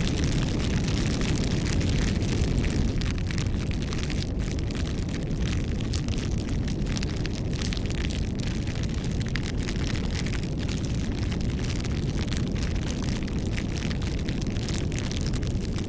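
Wood fire burning with a steady low rumble of flame and frequent sharp crackles and pops.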